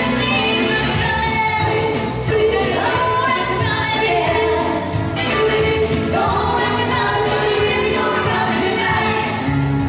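Live band and singers performing a rock-and-roll number over the show's sound system, with long held sung notes.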